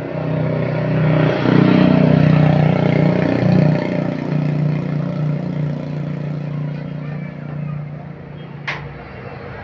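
A heavy vehicle's engine passing close by, getting louder over the first few seconds and then slowly fading, with a single sharp click near the end.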